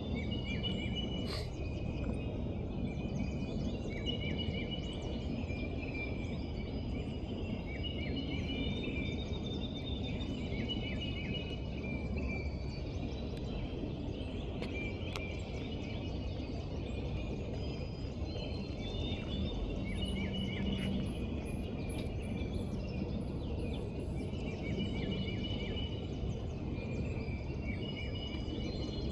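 Birds chirping and singing in short repeated phrases over a steady low background rumble, with one or two isolated sharp taps.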